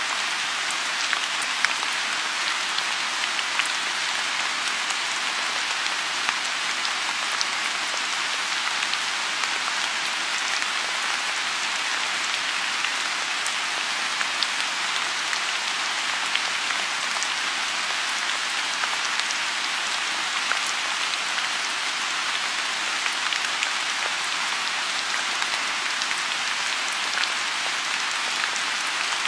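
Steady rain falling on a lotus pond: an even hiss with many separate drops ticking through it.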